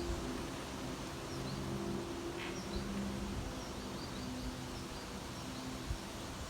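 Small birds chirping in short, high notes scattered throughout, over a steady low hum.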